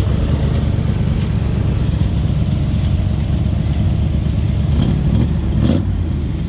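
A car's 5.7 Hemi V8 running at low revs as the car drives off, a steady low rumble, with a few short clicks about five seconds in.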